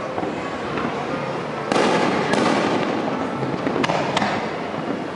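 Fireworks display: shells bursting, with a loud bang about two seconds in and several sharp pops after it, over a continuous dense crackle.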